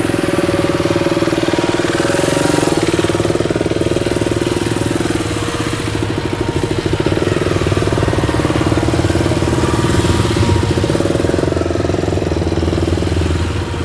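Motorcycle engine running steadily at low revs, its pitch shifting a little with small throttle changes.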